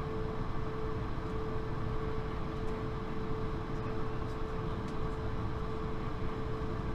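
Steady cabin noise inside a Swiss CS300 (Airbus A220-300): an even rushing hum from the engines and ventilation, with one constant humming tone running through it.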